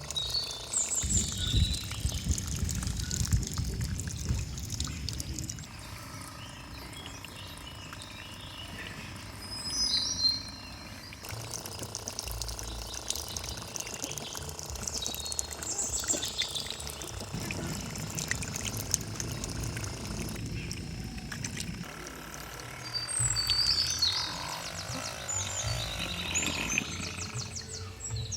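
Water pouring and splashing, with birds chirping throughout. The sound changes abruptly several times, in edited segments.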